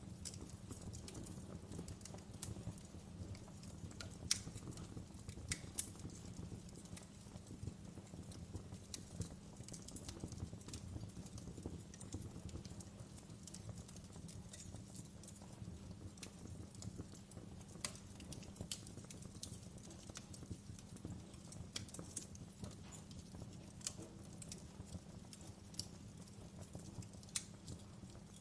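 Wood fire crackling: irregular sharp pops and snaps scattered over a low, steady rumble of burning logs.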